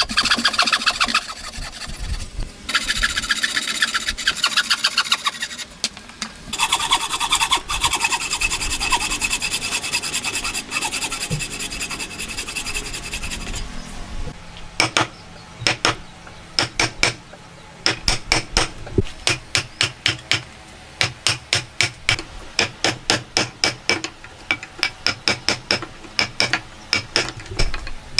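Hand tools working wood: rapid rasping or scraping strokes for about the first half, then a long run of sharp, irregular taps like hammering or mallet blows.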